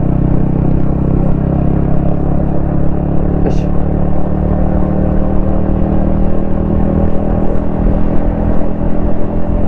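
Yamaha XSR155's single-cylinder 155 cc engine, fitted with a DIY exhaust, running at a steady cruise, its pitch holding nearly level throughout. A brief faint high chirp sounds about three and a half seconds in.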